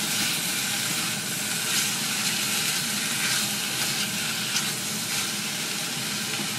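Sliced sausages frying in a pan with onion and garlic, a steady sizzle with a few brief sharper crackles.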